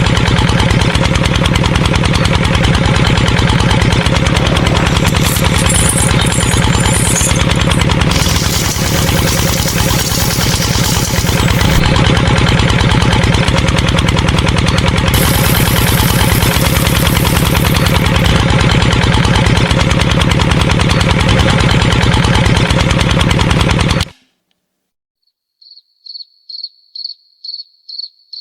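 Small motor running steadily with a rapid ticking rattle, which cuts off suddenly about 24 seconds in. After a moment of silence comes a string of short, high-pitched beeps.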